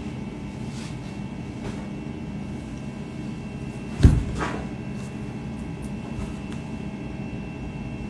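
Steady background hum with a faint high whine, broken by one sharp knock about four seconds in and a few faint clicks.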